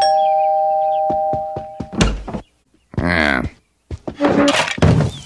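A string of cartoon sound effects: a two-note chime held for about two seconds, then a run of knocks and a thunk, a short warbling pitched noise about three seconds in, and more knocks near the end.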